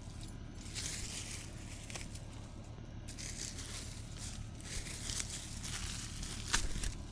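Leafy weeds and plant stems rustling and tearing as they are pulled and handled, in several uneven bursts, with a sharp snap near the end.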